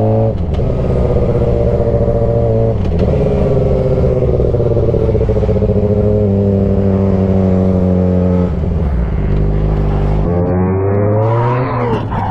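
Motorcycle engine under way, pulling steadily with its pitch dropping at upshifts right at the start, about three seconds in and about eight and a half seconds in, then a quick rise and fall in revs near the end.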